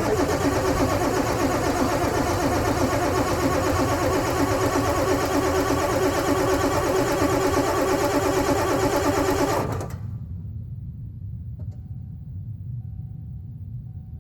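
Ford Powerstroke 7.3-litre V8 turbodiesel being cranked on its starter in the cold, a steady fast-pulsing churn that runs for about ten seconds and then stops suddenly, leaving a low rumble. The long crank is a hard cold start, with glow plugs worn out and due for replacement.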